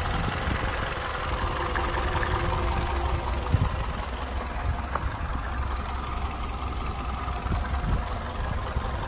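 Nissan Altima 2.5's four-cylinder engine idling steadily, with a brief knock about three and a half seconds in.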